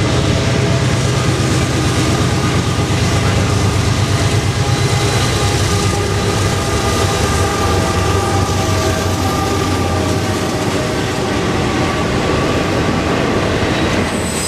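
CSX diesel-electric locomotives pulling a double-stack intermodal freight train past at close range: a heavy, steady engine drone as the lead units go by, easing off about two-thirds of the way through into the rumble of the container cars rolling on the rails.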